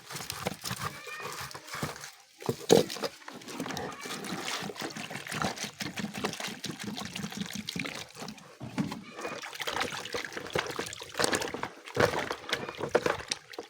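Water pouring and sloshing in a container as a blended onion-and-garlic mixture is mixed into drinking water.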